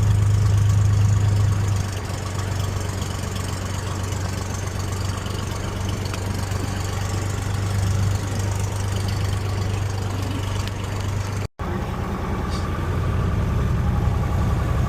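Cessna 172's piston engine running steadily at low power, a constant low hum, louder for the first couple of seconds. The sound cuts out for an instant about three-quarters of the way through.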